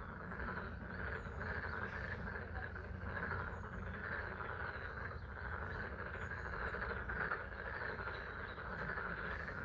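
A chorus of many frogs calling steadily from a pond, a dense overlapping trill, over the even patter of rain.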